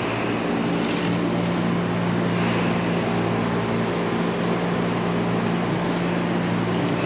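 Electric commuter train standing at a station platform with its doors closed, its onboard equipment giving a steady low hum.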